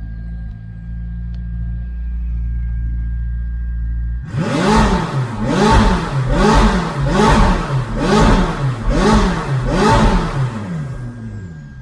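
McLaren 570S twin-turbo V8 through an FI Exhaust full system with catless downpipe, idling steadily, then revved in a quick run of about eight throttle blips, each rising and falling in pitch, before settling back toward idle near the end.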